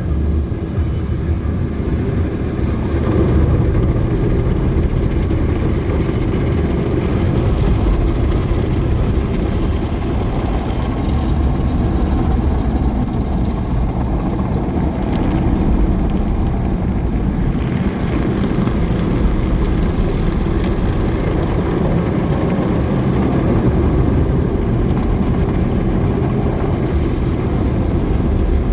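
Automatic car wash working over a car, heard from inside the car: a steady, loud, deep wash of water jets and machinery.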